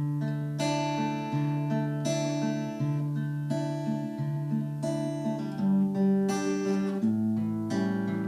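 Acoustic guitar playing the instrumental introduction of a song, strummed and plucked chords with a moving bass line. It starts abruptly after a brief silence.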